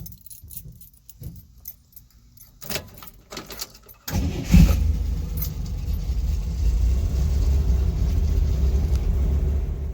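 Light jingling and clicks of keys, then about four seconds in a 1964 Corvair's air-cooled flat-six engine fires up with a sudden burst and settles into a steady, slightly uneven running rumble.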